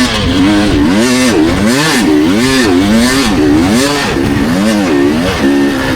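Dirt bike engine revving hard, its pitch swinging up and down about twice a second as the throttle is opened and shut, then holding a steadier note near the end.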